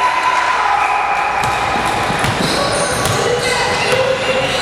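Basketball game sounds in a gym: a ball bouncing on the court amid a steady din of voices, with scattered short sharp sounds.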